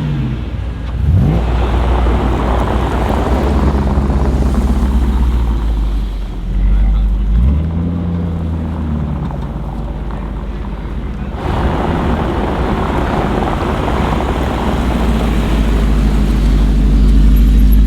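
Audi RS6 C7 Performance's twin-turbo V8 through an Akrapovic exhaust: a quick rev blip about a second in, then a steady deep burble with a second short rev around seven seconds. From about eleven seconds in the engine note grows louder and fuller and stays loud to the end.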